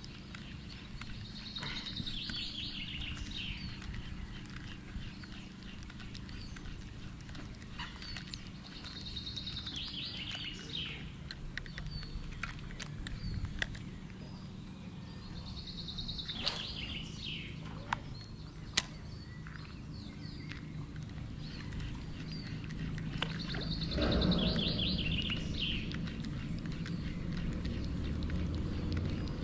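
A bird calling four times, about seven seconds apart, each call a quick run of high notes, the last one loudest, over a steady low background rumble. A few sharp clicks come in between.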